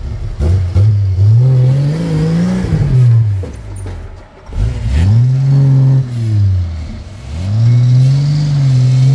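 Engine of a modified off-road 4x4 revving hard in three long surges, the pitch climbing and then falling back each time, as the vehicle works under load up a steep, rocky, muddy climb.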